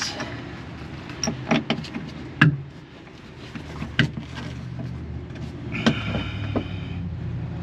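Scattered sharp metal clicks and knocks at irregular intervals as a seat-belt anchor bolt and its hardware are handled and fitted in a car. A steady low hum runs underneath.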